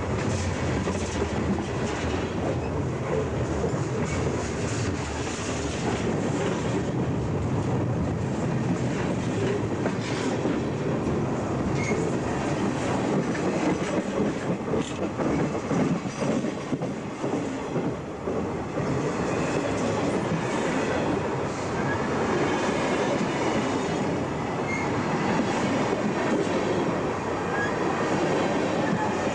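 Freight train cars rolling directly overhead, heard from between the rails: a steady rumble of steel wheels on the rails with scattered clicks and a few faint, brief squeals.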